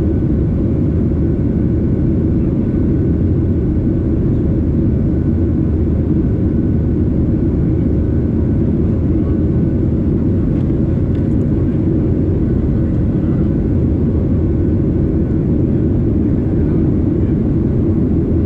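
Boeing 737-800's CFM56-7B jet engines running, a steady loud rumble with a faint steady hum above it.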